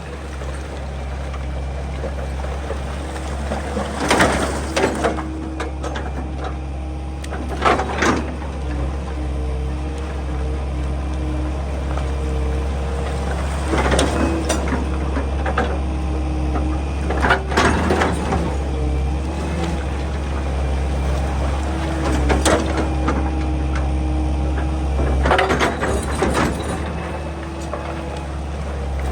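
Excavator working: its diesel engine runs with a steady low hum and a whine that comes and goes, while the bucket knocks and scrapes against rock every few seconds.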